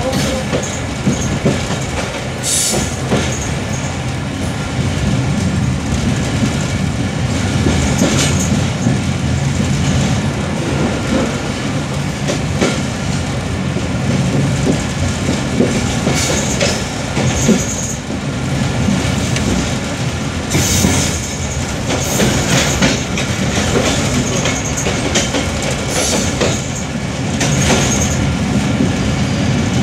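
Passenger train coach running along the track: a steady rumble of wheels on rails, with irregular sharper clatters as the wheels cross rail joints and points.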